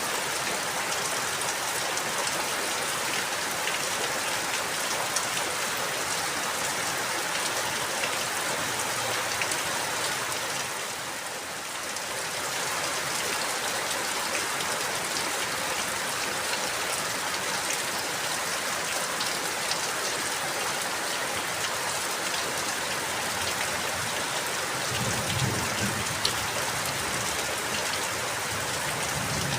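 Steady rain falling, with many fine drop ticks over an even hiss. It eases briefly about a third of the way in, and a low rumble comes in near the end.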